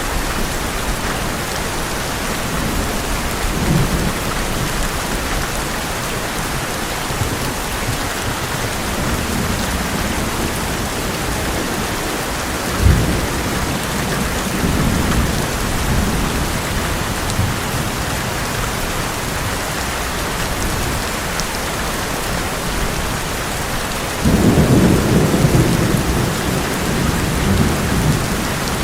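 Heavy rain falling steadily on an old metal roof, with thunder rumbling several times: a short sharp crack about halfway through and the loudest, longest rumble near the end.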